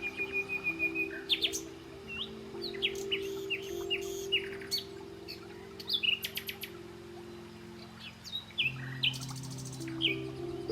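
Songbirds chirping and calling, with a quick trill of repeated notes at the start, over soft sustained background music chords.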